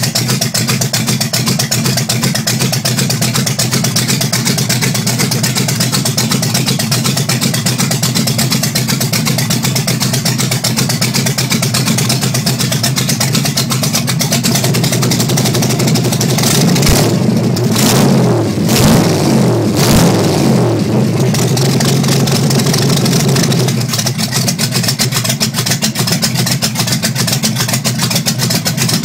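A '31 coupe hot rod's dual-carburetor V8 running loud and steady at idle through short open exhaust headers. About halfway through, the throttle is blipped several times, the revs rising and falling over several seconds, before it settles back to idle.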